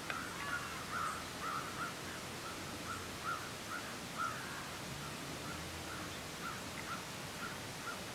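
A bird calling outdoors with a string of short, repeated notes, about two a second, that grow fainter and sparser toward the end, over a steady hiss.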